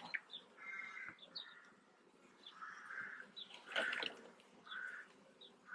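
Birds chirping, a string of short repeated calls, with a single knock about four seconds in.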